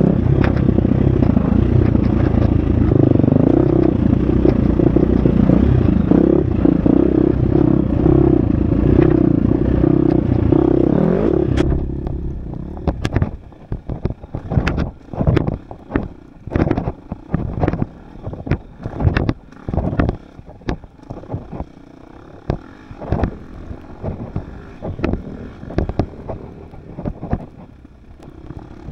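Husqvarna FX 350 dirt bike's single-cylinder four-stroke engine running hard on a trail. About twelve seconds in the engine sound drops away, leaving a run of irregular sharp knocks and clatters.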